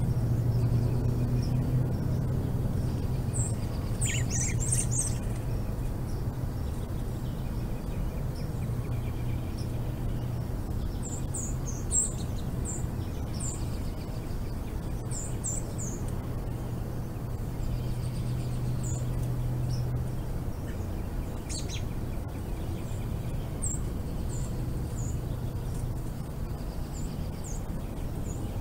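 Small birds giving short, high chirps, scattered singly and in quick runs, over a steady low hum that swells and fades.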